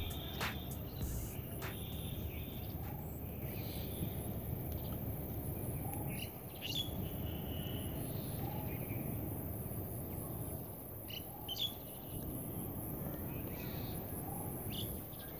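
Faint steady background noise with a few short, scattered bird chirps.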